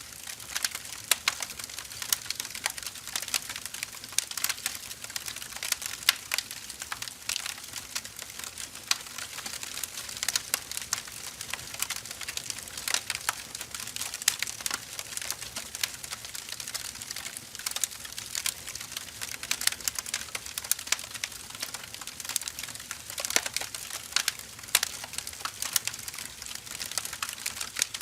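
Firewood burning with a steady hiss and dense, irregular crackling and popping, a few sharper pops standing out.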